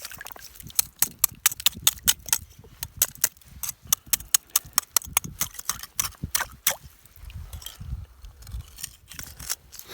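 Sharp crunching and knocking on snow and ice, several irregular strokes a second, over a low rumble of wind on the microphone.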